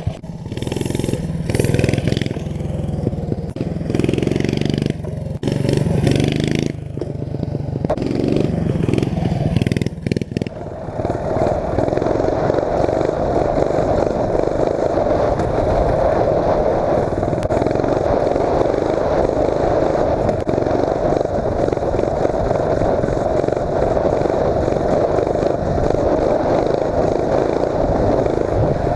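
Mini bike's 8 hp Tecumseh single-cylinder engine revving up and down in surges for about the first ten seconds, then running steadily at high throttle as the bike is ridden.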